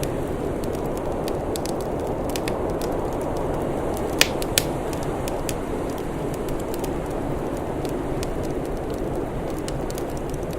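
Wood fire crackling with scattered sharp pops, two louder ones close together about four seconds in, over a steady low rushing background.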